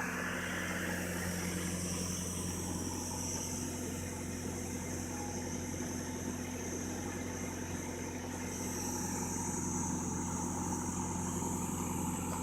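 An engine running steadily at idle, with a constant high hiss over its low hum.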